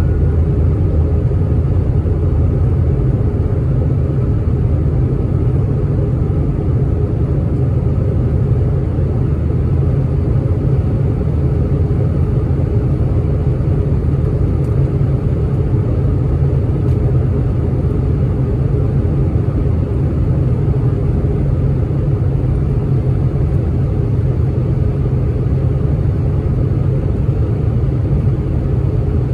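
Steady, loud low rumble of an Airbus A319's jet engines heard inside the passenger cabin, with no change in pitch or level.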